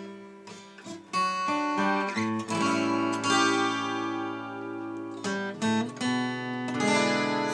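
Chords strummed on a plucked string instrument, four or so strums, each left to ring for a second or more.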